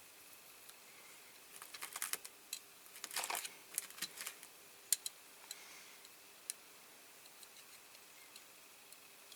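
Light clicks and short scratchy rubs of small parts being handled during work on a diecast model, bunched together a couple of seconds in, then a few single sharp clicks.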